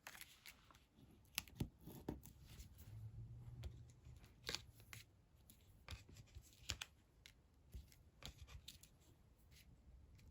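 Faint papercraft handling: scattered small clicks, taps and rustles of card stock and adhesive pieces being worked by hand.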